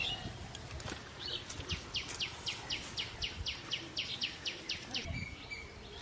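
A bird calling in a fast, even run of sharp, high chirps, about five a second, starting about two seconds in and stopping near the end, with a short whistled note just after.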